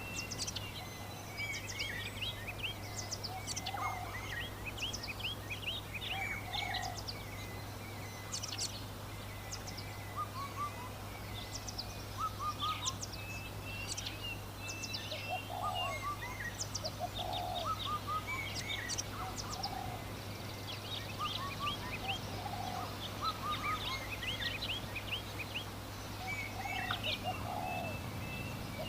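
Farmyard poultry giving short, repeated calls every few seconds, under a constant chatter of small birds chirping high overhead. A steady low hum runs beneath.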